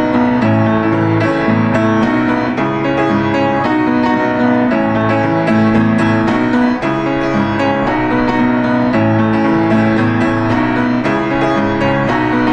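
Gentle piano music: a steady flow of notes with a sustained bass line.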